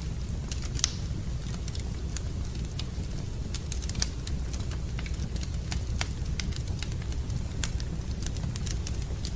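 Wood fire in a fireplace crackling, with irregular sharp pops and snaps over a steady low rumble; the loudest pops come about a second in and about four seconds in.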